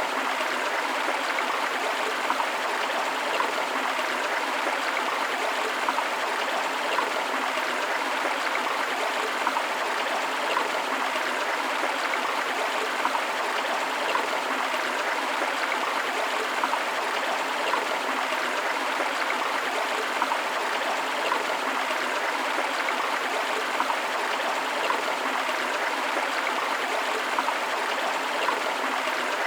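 Forest river flowing with a waterfall, a steady rush of water with fine splashing and gurgling.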